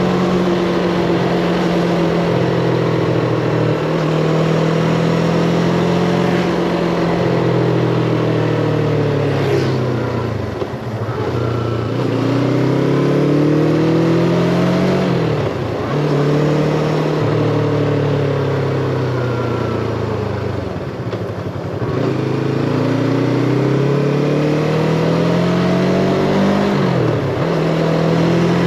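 Yamaha MT-25's parallel-twin engine under way, revs rising and falling with the throttle: it eases off about ten and again about twenty seconds in, and the pitch drops sharply twice as it climbs again, like gear changes.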